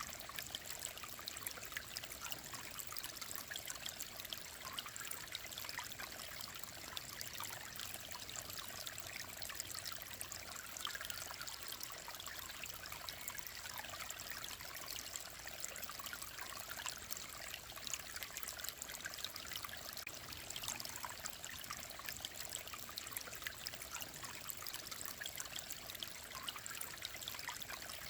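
Mountain stream babbling steadily, a constant trickling and splashing of flowing water.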